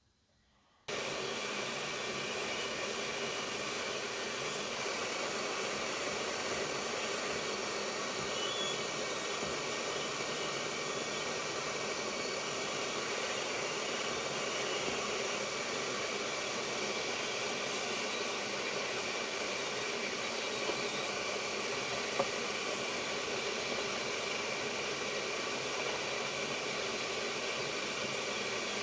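Hot air rework station blowing steadily, a constant airy rush with a faint fan whine. It starts abruptly just under a second in.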